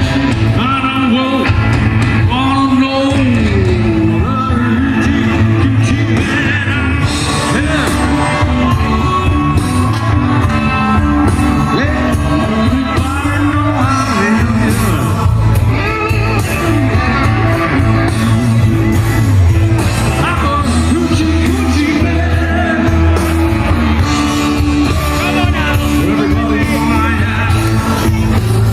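Live blues band playing, with a singer's voice over a steady full band and a strong bass line.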